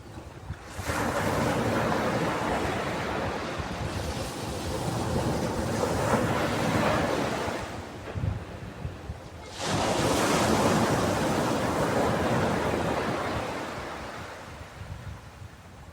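Ocean waves breaking on a beach: two waves, one crashing about a second in and the next about nine and a half seconds in, each hiss of surf slowly dying away.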